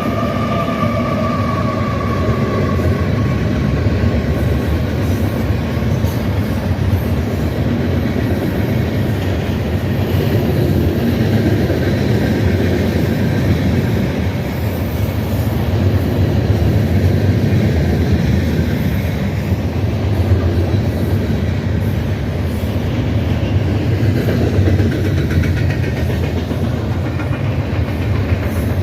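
Freight train's cars rolling steadily past on the rails close by. A high pitched tone falls slowly in pitch and fades out over the first few seconds.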